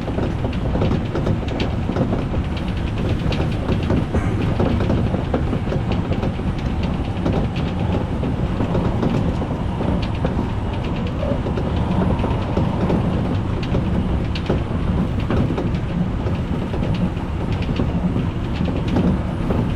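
Electric commuter train running along the track: a steady rumble of wheels on rails, with scattered clicks as the wheels pass over rail joints.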